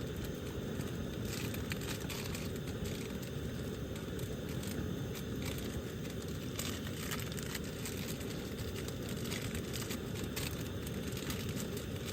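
Camp stove burner running steadily under a pot of water that is heating toward a boil: a constant low rushing noise with faint scattered crackles.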